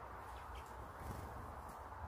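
Two faint, short, high bird chirps about half a second in, over a steady outdoor background hiss and low rumble.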